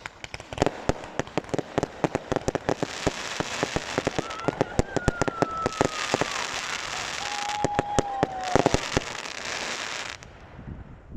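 Firework barrage: a rapid run of bangs thickening into dense crackling, with two falling whistles in the middle. The crackle cuts off suddenly near the end.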